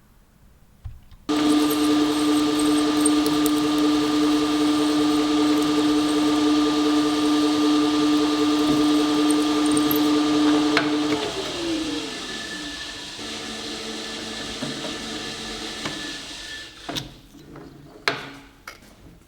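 An electric power tool's motor switches on abruptly and runs steadily, with a whine and hiss, for about ten seconds. It is then switched off and winds down with a falling pitch. A few sharp clicks or knocks come near the end.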